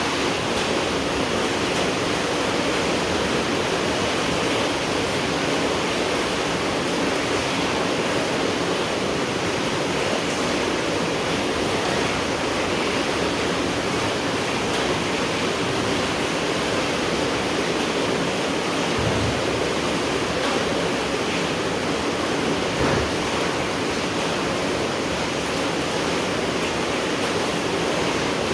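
Steady rainfall: a dense, even hiss of rain with no single drops standing out.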